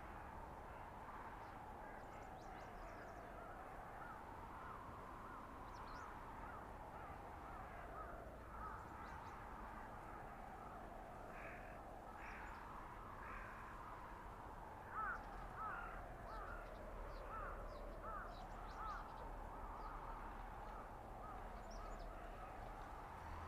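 Blizzard wind howling through a winter forest, its pitch slowly rising and falling over several seconds. Short higher-pitched calls or creaks come and go over it, busiest in the second half.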